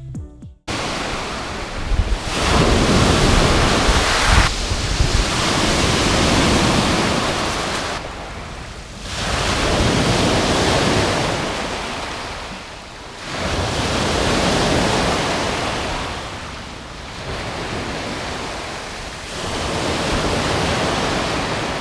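Sea waves breaking on the shore, the rushing noise swelling and falling back in surges every three to four seconds.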